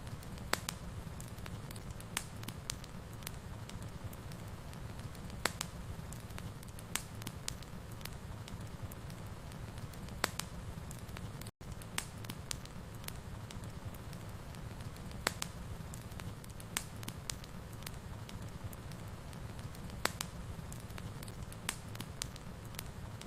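Wood fire burning: a steady low rumble with irregular sharp crackles and pops, and a split-second dropout about halfway through.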